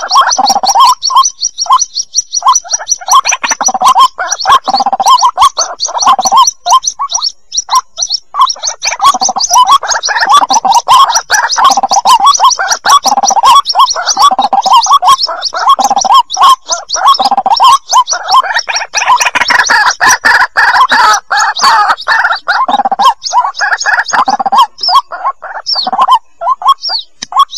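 White-breasted waterhen chicks calling: a dense, unbroken stream of short, rapidly repeated calls, with thin high-pitched peeping running above them.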